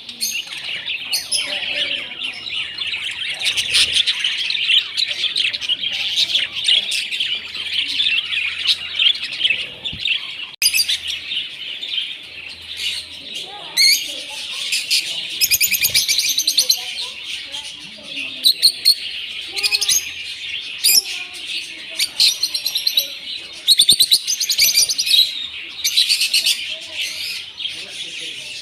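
Many small birds chirping and twittering together in a dense, continuous chatter, with sharper, higher chirps standing out over it.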